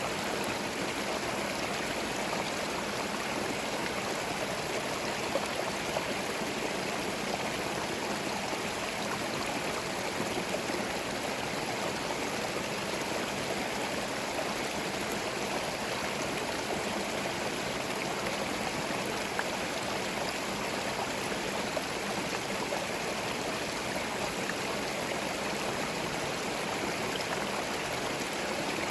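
Forest stream flowing steadily, water babbling and splashing over stones.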